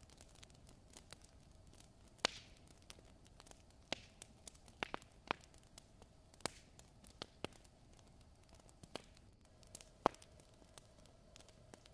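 Fire in a fireplace crackling: irregular sharp pops and snaps, the loudest about two seconds in and again near ten seconds, over a faint steady hiss.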